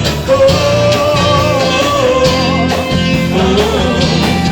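Gospel band music between sung lines: a long, wavering melody note held over bass, guitar and drums.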